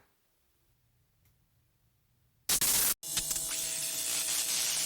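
Silence for about two and a half seconds, then a short loud burst of static-like noise, followed by a steady static hiss with a faint hum and a low steady tone.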